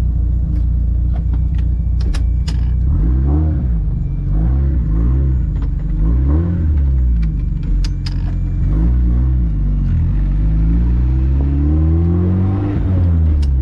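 Nissan SR20 four-cylinder engine in a 1983 Toyota Corolla wagon, heard from inside the cabin. It idles, then revs up and down several times as the car pulls away, with a longer climb in revs near the end.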